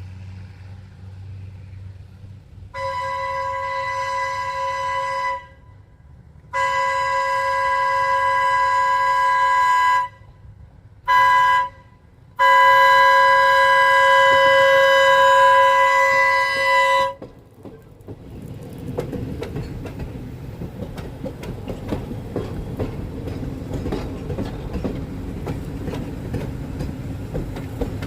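A train sounds its horn in four blasts, long, long, short, long: the grade-crossing signal. From about 18 s the train rumbles past, its wheels clacking over the rail joints.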